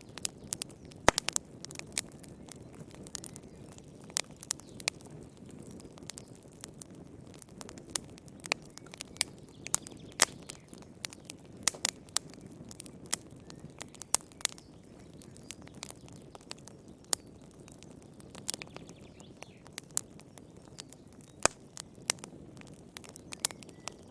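Campfire burning with irregular crackles and sharp pops of the wood over a steady low hiss of the flames.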